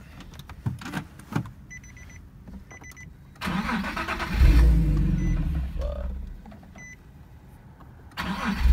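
Dashboard chime beeps twice, then the turbocharged Nissan 370Z's engine cranks on the starter, catches about four seconds in and runs loudly before going quiet around three seconds later. Near the end it starts again just as loudly.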